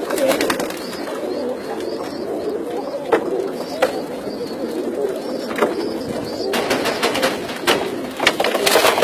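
A flock of domestic pigeons cooing continuously, many birds overlapping. Scattered sharp clicks are heard throughout, thickest near the end.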